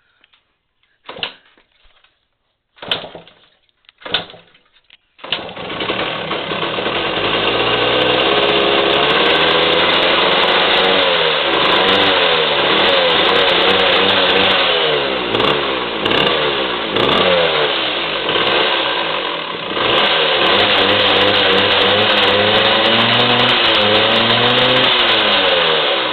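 Yamaha 175 Enduro two-stroke single-cylinder engine on a cold start: three short bursts, then it catches about five seconds in and runs. The revs rise and fall repeatedly in the middle and it settles toward the end.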